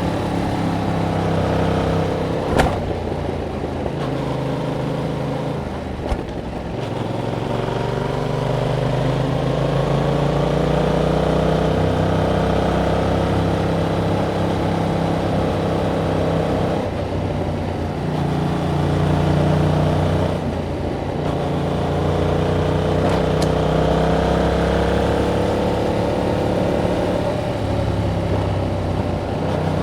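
2021 Yamaha MT-07's parallel-twin engine through its stock exhaust, heard while riding. The engine pitch climbs and drops as it accelerates, shifts gear and rolls off several times, with two sharp clicks in the first six seconds.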